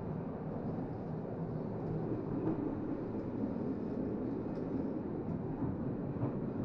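Steady low rumble of a train carriage heard from inside while the train runs.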